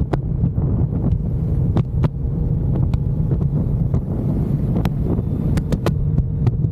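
Wind buffeting the microphone on a moving motorcycle, with the engine running steadily underneath. Scattered sharp clicks or knocks come through the rumble.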